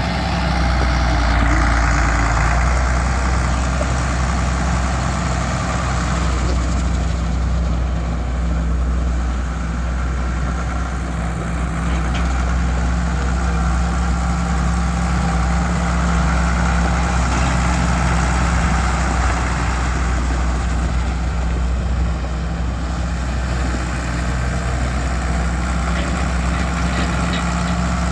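1971 Case 970 tractor's diesel engine idling steadily.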